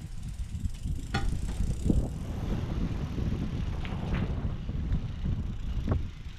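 Mountain bike being ridden, with a steady low wind rumble on the microphone and several sharp clicks and rattles from the bike.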